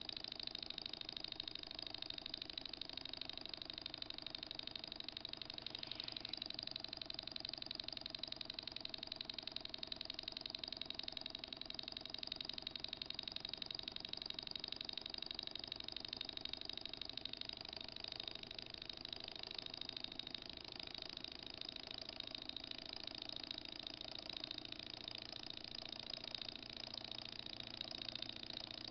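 Small model Stirling engine heated by a candle flame, running steadily at about 1000 rpm with a rapid, even mechanical ticking.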